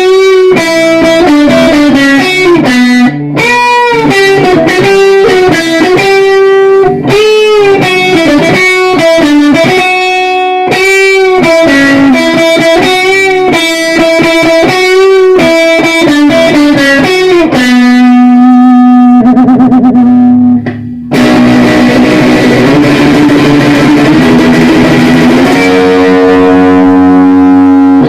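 Guitar through an effects unit playing a lead melody note by note, with bends and vibrato. After about 17 seconds it moves to long sustained notes with a thicker, distorted sound, briefly cutting out around 20 seconds in.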